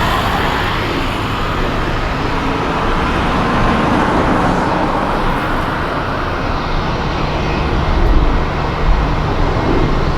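Jet airliner engine noise, a steady loud rumble whose upper hiss fades from about halfway through as the aircraft draws away. Two brief low thumps near the end.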